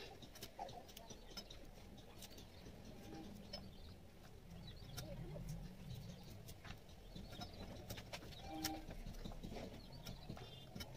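Faint, low cooing like a pigeon or dove, with scattered light clicks and taps.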